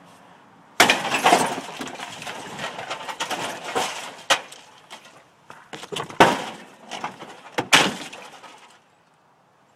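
Sledgehammer blows smashing into an old refrigerator: several sharp, loud strikes, the first about a second in and the others spread through the rest, with breaking and clattering debris between them.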